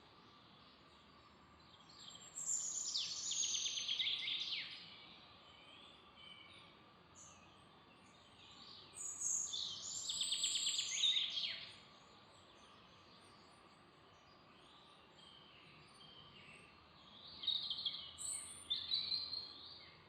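A songbird singing three song phrases a few seconds apart, each a quick run of high notes falling in pitch, with fainter chirps from other birds in between, over a faint steady background hiss.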